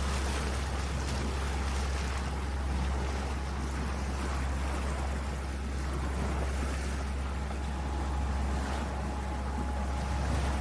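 Sailboat under way: a steady low rumble with a wash of wind and water noise, unchanging throughout.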